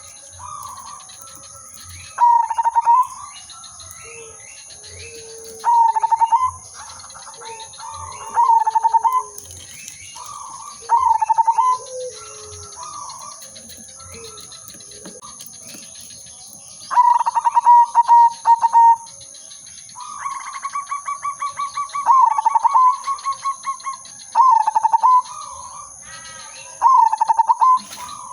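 Zebra dove (perkutut) singing its rapid, staccato cooing phrases: a short loud burst every two to three seconds, with two longer rolling phrases past the middle. Other small birds chirp faintly between the phrases.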